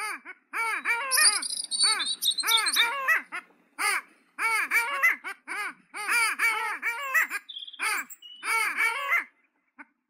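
Birds calling: quick runs of short, harsh calls that rise and fall in pitch, three or four at a time, with a small bird's thin, high trill about a second in.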